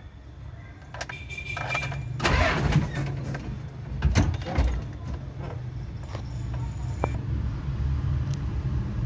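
Mitsubishi 4D56 diesel engine being cranked by its starter and starting, with loud surges about two and four seconds in, then settling into a steady low idle rumble. The starter is one the owner says turns weakly, the cause of hard starting when the engine is hot.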